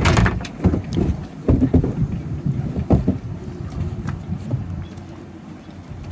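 Wind buffeting the microphone in irregular gusts, a low rough rumble with sudden surges that eases off in the last couple of seconds.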